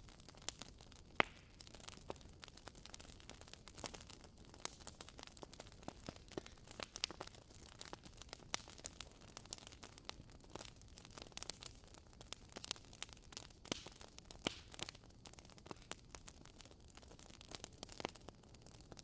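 Wood fire in a fireplace crackling: irregular sharp pops and snaps over a faint hiss.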